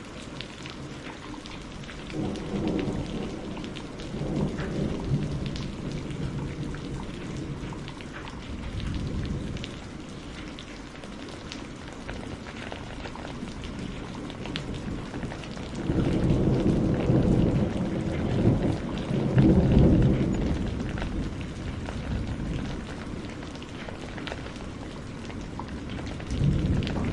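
Steady rain with rolling thunder: a rumble a couple of seconds in, a weaker one partway through, and the loudest, longest roll in the second half, with another starting near the end.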